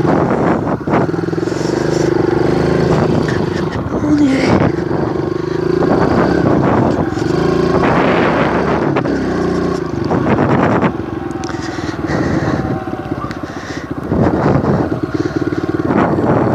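Kawasaki KLX 110 dirt bike's small single-cylinder four-stroke engine running while being ridden, its pitch rising and falling as the throttle opens and closes.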